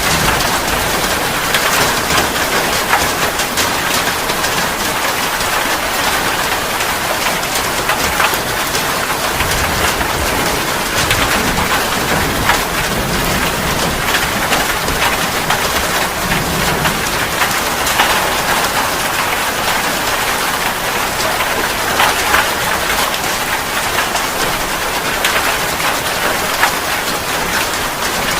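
Steady rain, with many individual drops striking a close surface heard as sharp ticks over an even hiss.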